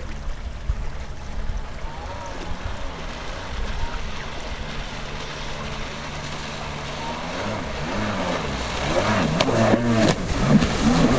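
Kawasaki 750SX stand-up jet ski's two-stroke twin engine running on the water. Its pitch holds steady at first, then from about three-quarters through it rises and falls repeatedly and gets louder as the engine is revved.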